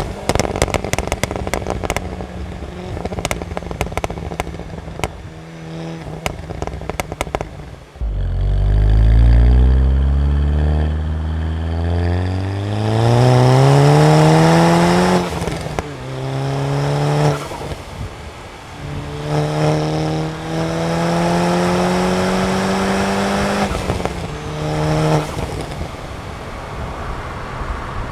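Stage 2 tuned Volkswagen Golf MK6 GTI's turbocharged 2.0-litre four-cylinder driven hard. For the first several seconds there is a run of sharp cracks and pops. About eight seconds in the engine pulls hard with its note rising, then drops at an upshift and pulls again through the gears in shorter bursts.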